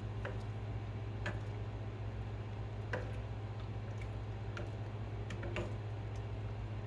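Steady low hum with a few scattered light clicks and taps, about five or six over the stretch.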